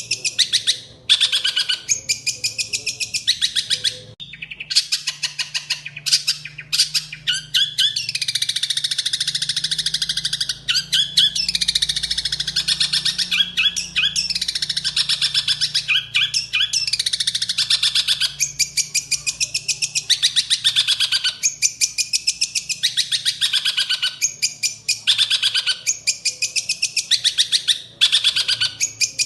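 Songbird singing a fast, continuous chattering song of rapidly repeated high chirps and trills, broken by a few short pauses.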